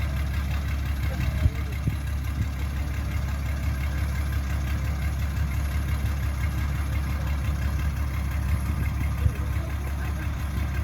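Excavator diesel engine running steadily at low speed, with two short knocks, about a second and a half in and near the end.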